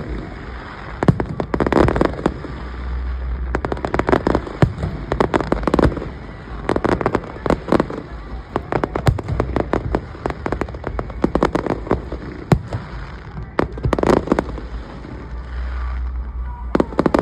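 Fireworks display: volleys of sharp cracks and crackling bursts come in waves, over a low rumble of booming shells.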